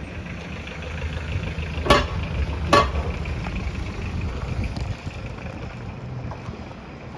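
Volvo VM 260 truck's diesel engine idling steadily, with two sharp knocks about two seconds and nearly three seconds in.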